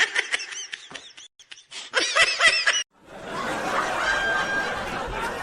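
Short bursts of snickering laughter, repeated in quick pitched bursts, stopping abruptly about three seconds in. A steady noisy background follows.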